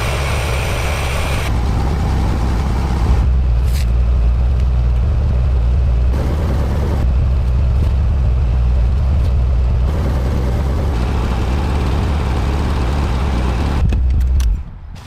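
Car engine idling steadily with a deep, even hum, heard across several abrupt cuts, then stopping suddenly near the end.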